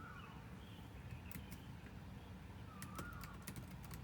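A bird calling faintly: a short whistled note that rises and falls, heard twice about three seconds apart. Scattered light clicks sound among the calls.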